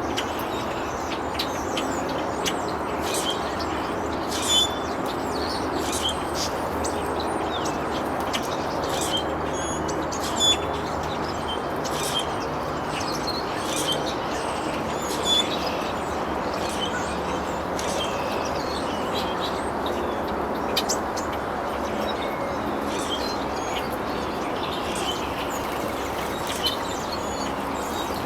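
Birds chirping in short, scattered calls over a steady background rush, with a few sharper clicks.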